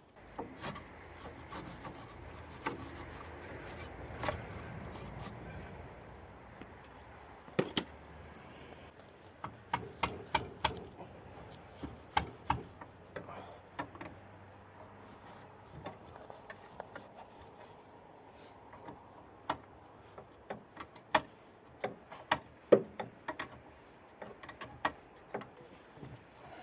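Rubbing and scraping for several seconds, then irregular sharp clicks and knocks, as of hand tools at work.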